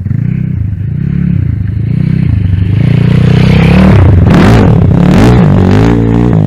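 Kayo TT140 dirt bike's single-cylinder four-stroke engine being ridden hard, its pitch rising and falling again and again as it revs, getting louder about three seconds in.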